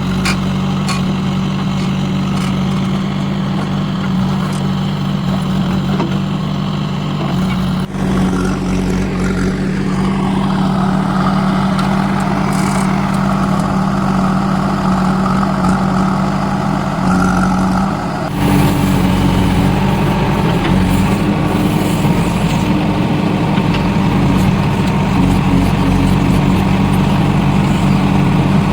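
Heavy diesel engine running steadily, with the sound shifting abruptly about 8 and 18 seconds in.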